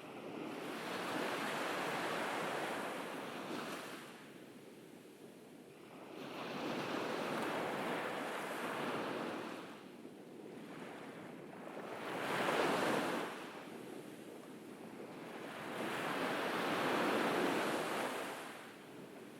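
Ocean waves breaking and washing up a beach, four swells of surf rising and falling every four to five seconds, the sharpest one about twelve seconds in.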